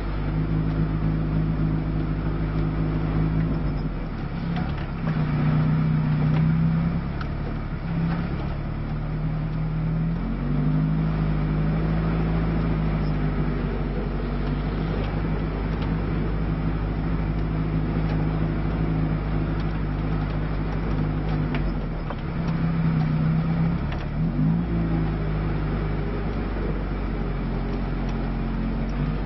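Lada Niva's engine running at low speed, heard from inside the cabin. Its note rises and falls several times as the throttle is eased on and off while the car creeps over rough grass.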